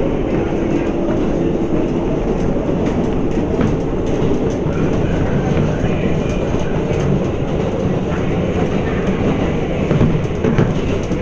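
New York City subway 7 local train running between stations, heard from inside the car: a steady rumble of wheels on the track with faint clicking over the rail joints.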